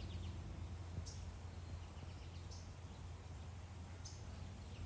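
Faint outdoor ambience: a steady low hum, with a few short, high bird chirps scattered a second or more apart.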